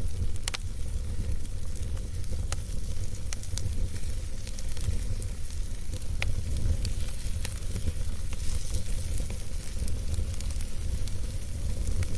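Campfire crackling, with scattered sharp pops and snaps over a steady low rumble and a high hiss.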